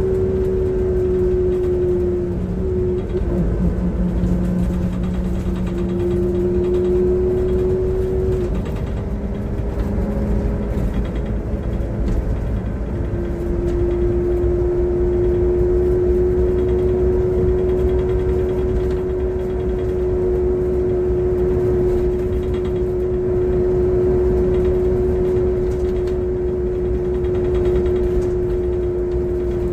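Transperth bus TP1422 driving under way, heard from inside, with a low rumble and a strong steady whine that breaks and shifts pitch a few times in the first half, then holds steady. The uploader calls this a bad engine sound.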